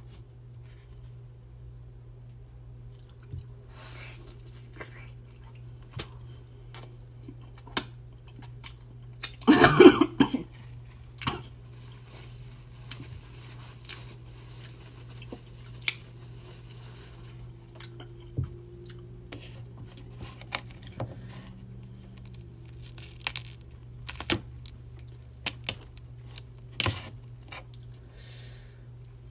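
Close-miked eating of a seafood boil: wet chewing with scattered crunches and clicks, and one much louder crackling burst about ten seconds in.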